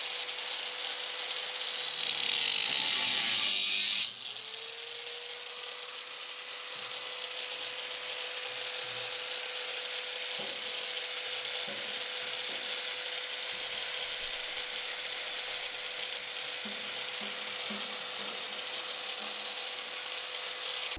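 A power cutting tool running at a steady pitch as it cuts the rusted sheet steel out of a jeep's side step. About two seconds in it bogs down in pitch and gets louder for a couple of seconds as it bites into the metal, then spins back up and carries on.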